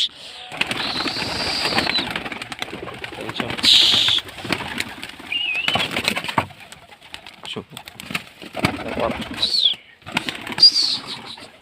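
Domestic pigeons cooing and shuffling with flaps of their wings, with a few short high chirps among them.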